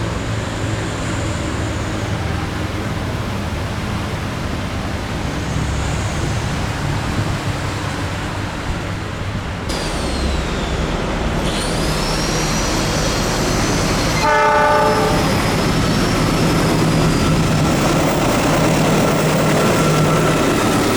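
Diesel locomotive of a long-distance train running past, its low engine drone growing slightly louder in the second half. A short horn blast sounds about two-thirds of the way through.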